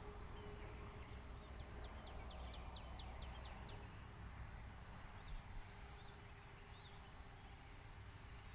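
Wild birds calling over steady wind rumble on the microphone: a quick run of about ten short, falling chirps, then a high, thin buzzing trill about halfway through.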